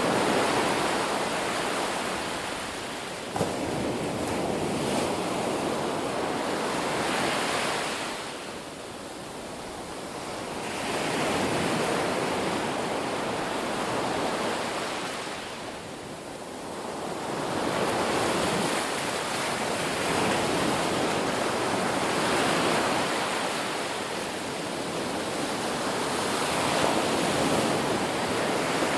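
Sea waves washing in, the surf rising and falling away in slow surges several seconds apart. There is one short click about three seconds in.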